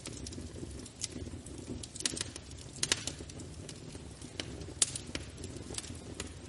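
Wood fire burning in a fireplace: a low steady rumble of flames with irregular sharp crackles and pops, the loudest about three and five seconds in.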